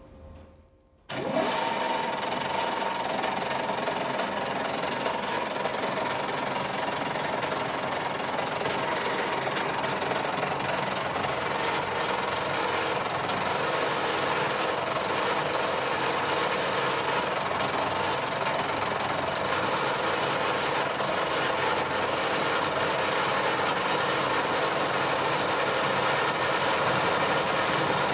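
Colchester Master lathe starting up about a second in and then running steadily, with an 8.5 mm drill cutting into the end of the steel bar held in its chuck.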